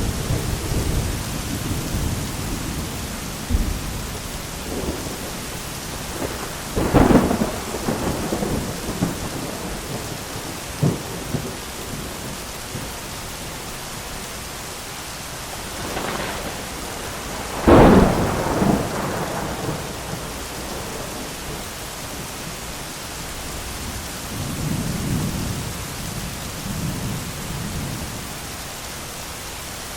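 Thunderstorm: steady heavy rain with rolling thunder, a sharp thunderclap about seven seconds in and a louder crack of thunder with a rumbling tail about eighteen seconds in, then a softer low rumble near the end.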